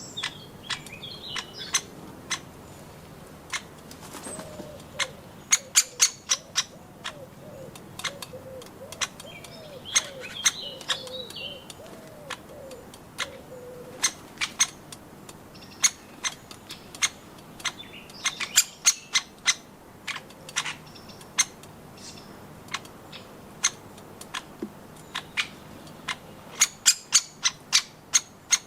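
Woodpeckers pecking at nuts: sharp, irregular taps, some in quick runs of several a second. Small birds chirp now and then, and a low call of rising-and-falling notes repeats for several seconds about 5 seconds in.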